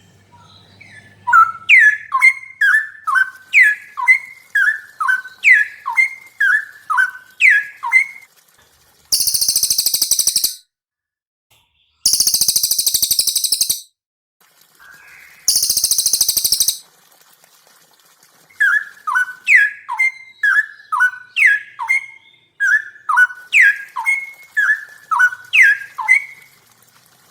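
Caged songbirds singing, from a cililin and a straw-headed bulbul (cucak rowo) training recording: a clear sweeping two-note phrase repeated about twice a second. In the middle it gives way to three loud, harsh, buzzing bursts of a second or two each, then the repeated phrase returns.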